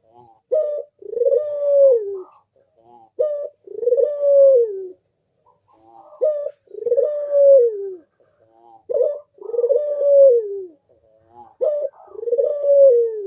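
A puter (collared dove) cooing its manggung song: about five phrases, each a short note followed by a long coo that falls in pitch at the end, repeated every few seconds.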